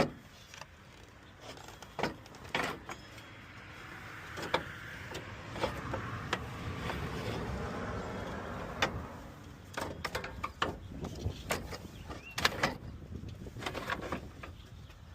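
Scattered clicks and knocks of a radiator and its hoses being handled and pushed into place in a car's front end. A soft whoosh swells and fades in the middle.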